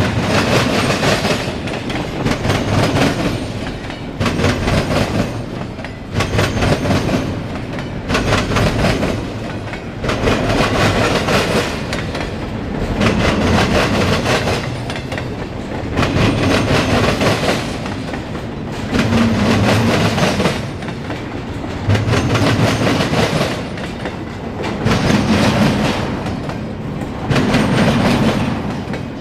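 A CSX mixed freight train's cars rolling past, with the wheels clattering over the rail joints. The rumble swells and dips about every two seconds.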